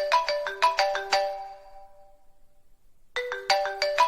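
Mobile phone ringtone: a short tune of quick chiming notes that dies away, pauses for about a second, then starts over near the end.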